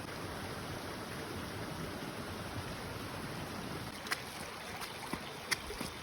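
Steady rushing outdoor noise, with a few short sharp taps in the second half.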